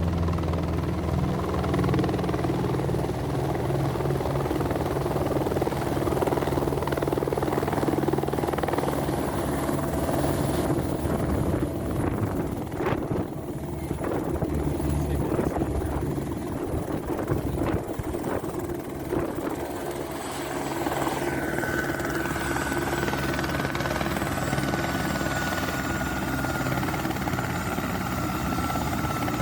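Eurocopter AS350 helicopter's single turboshaft engine and rotor running steadily close by. A thin high turbine whine comes in about two-thirds of the way through and sinks slightly in pitch.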